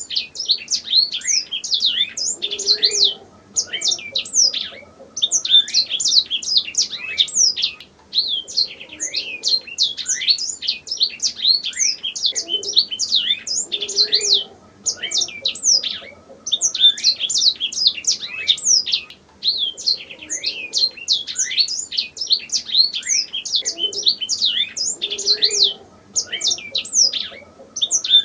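Canary singing: long phrases of fast, high chirps and trills, each broken off by a short pause every few seconds.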